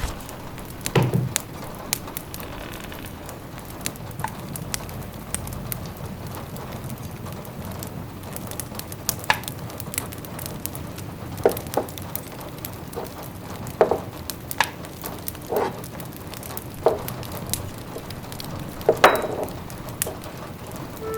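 Wood fire crackling in a fireplace, with irregular sharp pops and snaps over a steady hiss of rain pattering.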